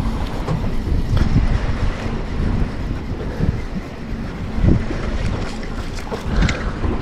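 Wind buffeting the microphone aboard a boat at sea, a steady, rough rumble with uneven gusts.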